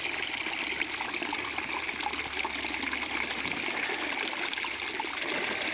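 Water trickling and running over rocks in a small stream, a steady rushing.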